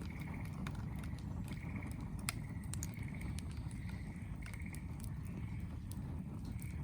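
Wood fire crackling, with scattered sharp pops and one louder snap about two seconds in, over a steady low rumble. Behind it, a short, high, pulsed chirp repeats about every half second.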